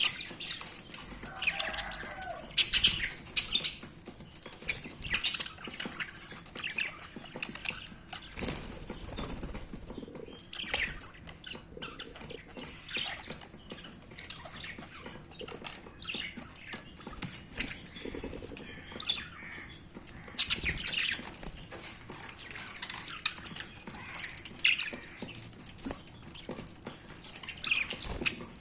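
Budgerigars bathing: wings fluttering and splashing in water in short, irregular bursts, with a few brief chirps.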